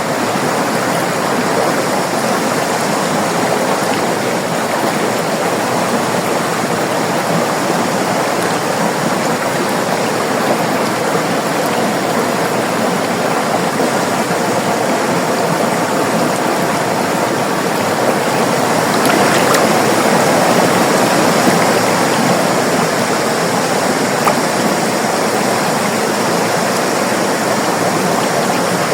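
River water rushing and splashing over rocks in a steady, even rush, swelling slightly a little past the middle.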